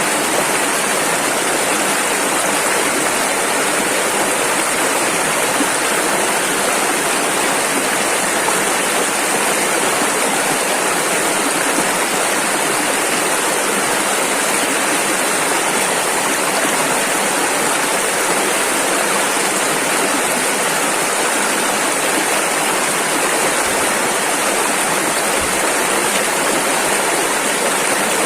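Rushing river water, a steady, even rush of flowing rapids.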